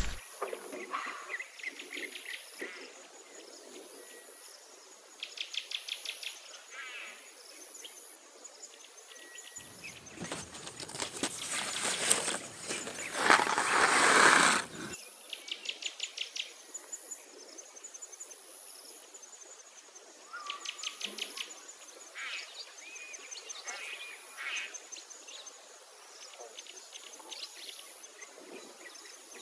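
Small birds singing, in short rapid trills of high notes repeated every few seconds. Several seconds of loud rustling noise near the middle.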